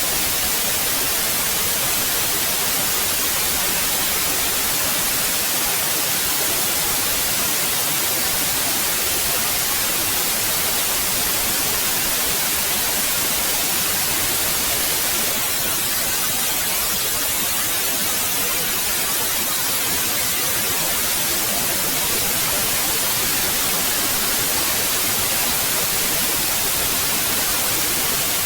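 Steady synthetic white noise: an even, unbroken hiss, brightest in the treble.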